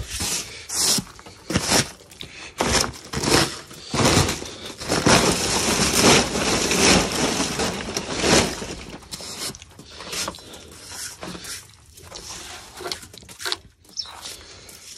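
Snow crunching and scraping in irregular bursts, densest between about four and eight seconds in, then thinning out.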